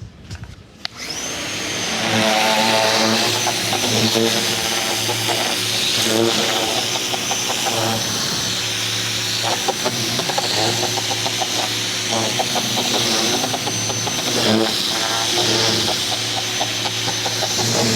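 Ryobi 2000 PSI electric pressure washer starting about a second in and running steadily, its motor and pump humming under the hiss of the water spray. A thin high whine rides over it and stops a few seconds before the end, while the motor keeps running.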